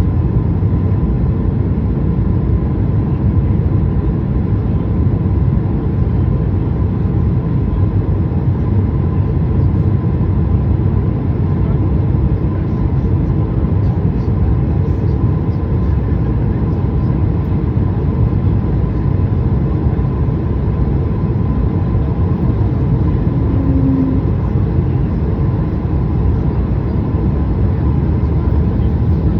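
Airliner cabin noise: a steady, loud rush of engine and air noise with a faint steady hum, with no sudden events.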